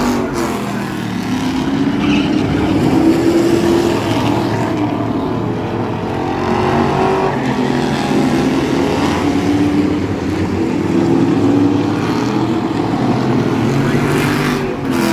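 Racing truck engine at full race load, its pitch climbing as it accelerates and dropping as it backs off, over and over every few seconds.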